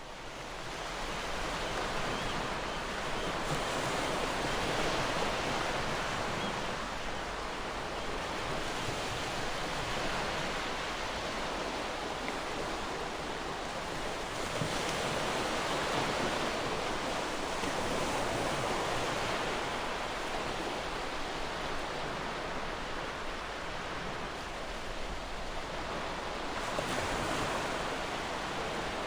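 Gentle ocean waves washing in, a steady surf wash that swells and eases every few seconds. It fades up from silence in the first second.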